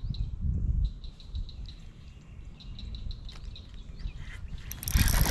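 Small birds chirping in quick, repeated short notes over a low rumble. A loud rustling noise starts near the end.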